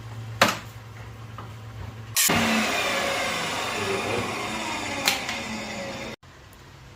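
Table saw running: a low steady hum with a sharp click, then from about two seconds in a much louder stretch with its tones falling steadily in pitch. It cuts off abruptly near the end.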